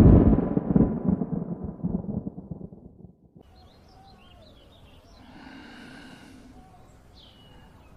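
A sudden loud boom that rumbles away over about three seconds, followed by faint chirping.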